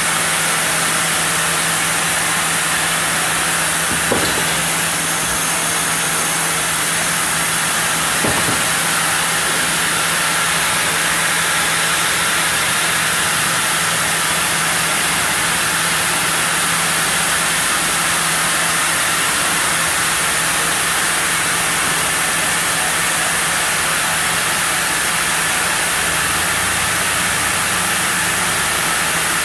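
Sawmill saw running steadily through a block of zelkova wood, a constant hum under a hiss, with two light knocks about four and eight seconds in.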